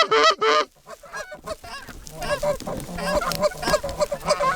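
Canada geese honking: a few loud, close honks at the start, then after a short lull many overlapping honks and clucks of a flock that grow busier.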